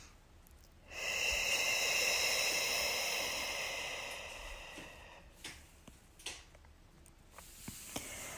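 A woman's long, deep breath, starting about a second in and fading away over about three seconds, followed by a few faint clicks.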